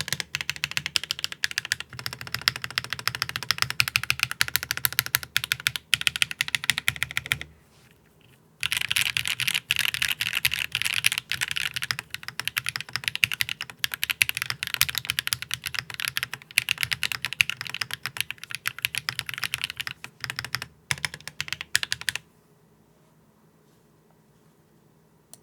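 Fast typing on a top-mount custom mechanical keyboard with HMX Sunset Gleam linear switches, an aluminium plate, no foam and lubed stabilizers: a quick, dense run of keystroke clacks. It breaks off for about a second roughly a third of the way in, resumes, then stops a few seconds before the end, leaving only faint room tone.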